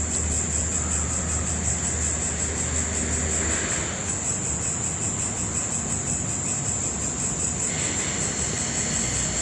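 A steady high-pitched insect trill with a fast, even pulse, like crickets or grasshoppers stridulating, over a low hum that fades about a third of the way in.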